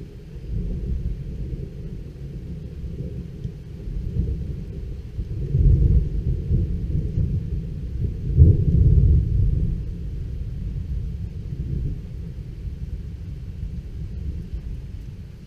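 Thunder rolling in a long, deep rumble that swells twice, a little after a third of the way in and again about halfway through, before fading back.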